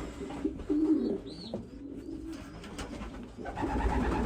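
Racing pigeons cooing in a loft, low rolling coos coming and going, with a brief rustle near the end.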